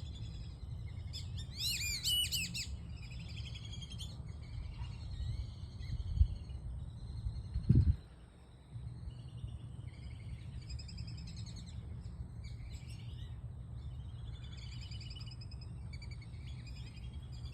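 Birds chirping and calling in short high notes throughout, with one louder call about two seconds in, over a steady low rumble. Two dull thumps come about six and eight seconds in.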